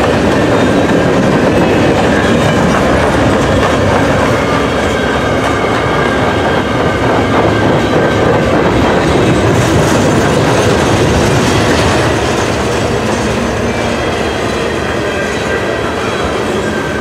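Freight cars of a loaded potash train rolling past close by, steel wheels running and clacking on the rails, with faint thin wheel squeal as the train slows toward a stop. The sound eases slightly about three quarters of the way through.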